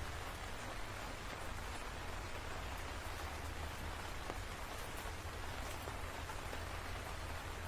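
Steady rainfall, an even hiss of rain with a few faint drop ticks and a low rumble underneath.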